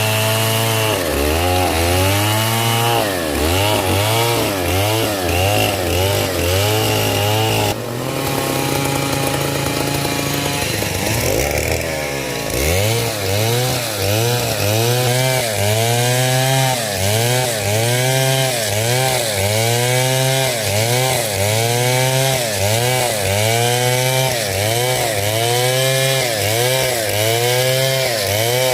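Stihl 070 two-stroke chainsaw sawing hard coconut wood, its engine pitch rising and falling about once a second. About a third of the way in the cycle breaks for a few seconds into a steadier, higher tone, then the rising and falling resumes.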